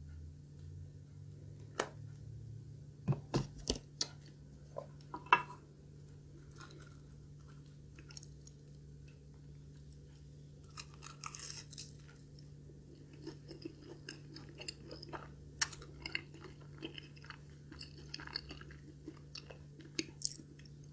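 Close-miked crunching and chewing of crispy breaded deep-fried food: a few sharp crunches in the first five seconds, then softer steady chewing with small crackles.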